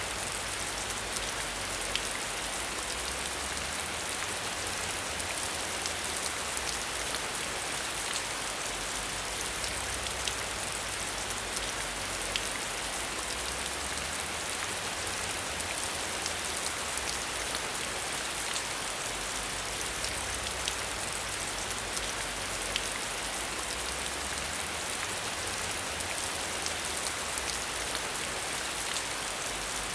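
Steady rain falling, an even hiss with many individual drops ticking sharply and irregularly throughout.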